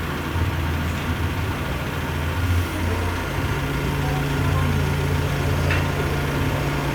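Engine of a crane lift idling, a steady low hum.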